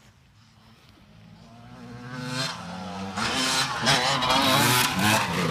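Motocross bike engine coming closer and revving hard, growing louder over the first few seconds, its pitch rising and falling as the rider works the throttle.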